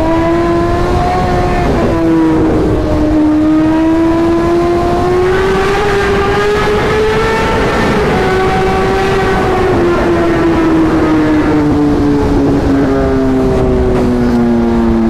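Suzuki 1000cc supersport motorcycle's inline-four engine running hard at high revs, loud and steady, its pitch climbing slowly through the middle and then sinking lower near the end.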